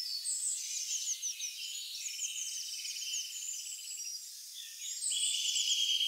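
Several songbirds singing over one another, with many quick, high, falling chirps. A rapid buzzy trill comes about two seconds in, and a longer, louder one starts near the end.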